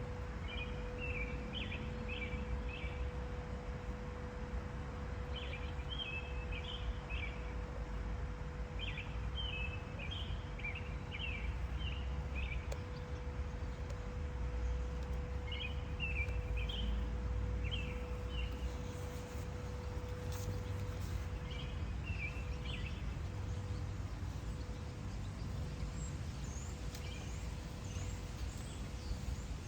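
A songbird singing short, chattering phrases that repeat every few seconds, with a few higher chirps near the end, over a steady low outdoor rumble and a faint constant hum.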